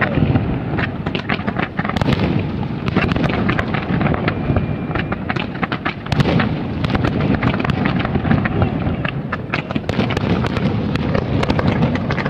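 Aerial fireworks going off in a dense, unbroken barrage: many bangs and crackles a second overlapping into a continuous rumble.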